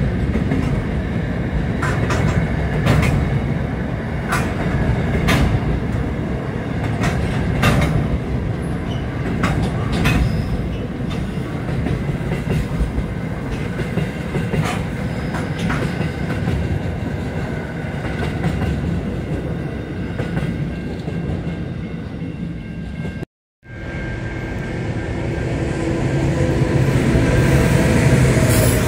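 Train cars rolling past a level crossing, wheels clacking irregularly over rail joints. After a brief dropout near the end, a diesel locomotive approaches with its engine sound rising.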